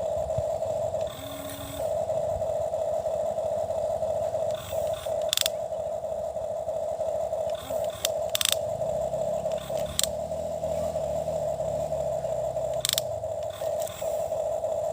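Toy excavator's small electric motor whining steadily as it digs, dropping out briefly a few times, with several sharp clicks and scraping as it works through the soil.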